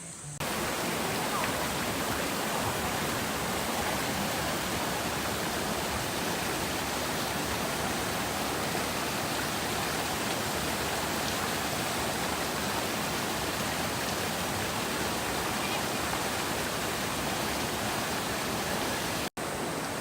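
Valley stream water rushing steadily over rocks, an even, unbroken rush. It cuts in abruptly about half a second in and drops out for an instant near the end.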